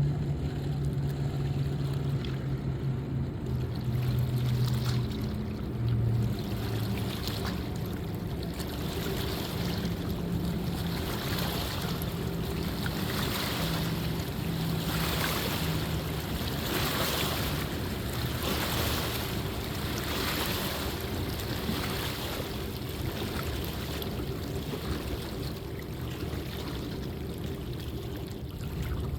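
A motorboat's engine drones steadily and fades over the first several seconds. Water washes in repeated swells, as from boat wake against the shore or hull.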